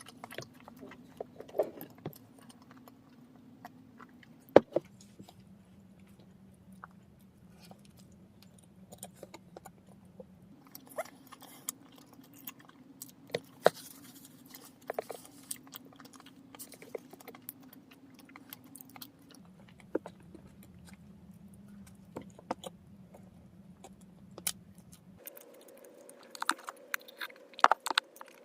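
Close-miked chewing and biting of onion-and-cheese bread, with scattered crisp clicks and crunches that come thicker near the end. A faint steady low hum sits underneath and changes pitch a few times.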